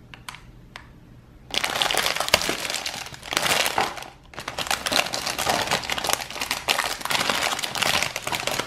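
Thin clear plastic bag crinkling as hands unwrap a frame of moulded pink plastic parts, in two long spells with a short break near the middle, after a few light clicks.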